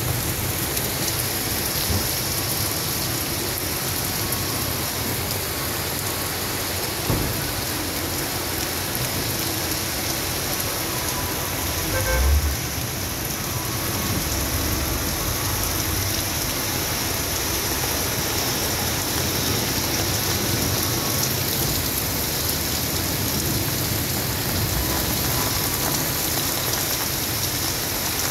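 Heavy rain pouring steadily onto a flooded street. There is a brief low rumble about twelve seconds in.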